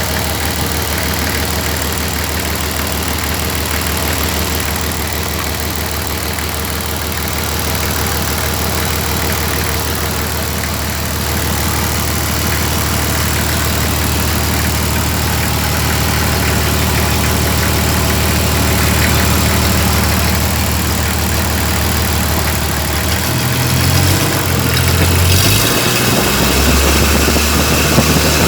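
Toyota 1HZ 4.2-litre inline-six diesel engine idling steadily, its note changing in the last few seconds as the engine speed varies.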